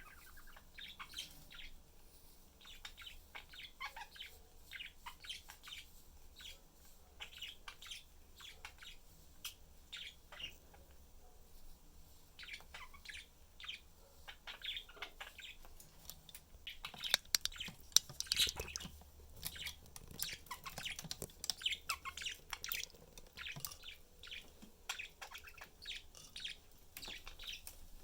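Budgerigars chirping and chattering, a run of short high chirps that grows busiest and loudest about two-thirds of the way through.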